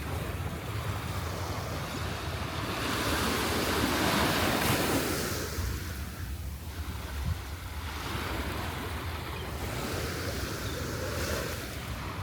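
Waves washing onto a sandy beach, one breaking louder about three to five seconds in, with smaller washes later. Wind rumbles on the microphone underneath.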